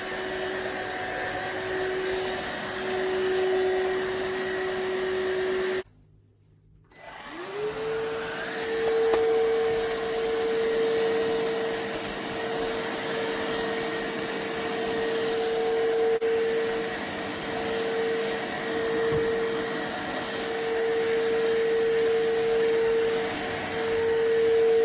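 Cordless stick vacuum motor running with a steady whine. It cuts out about six seconds in, then starts again a second or so later, its pitch rising and settling a little higher than before.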